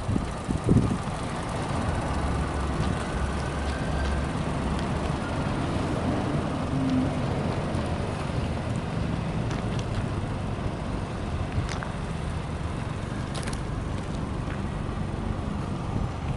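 Suzuki Cappuccino's small turbocharged three-cylinder engine idling steadily, with some wind on the microphone.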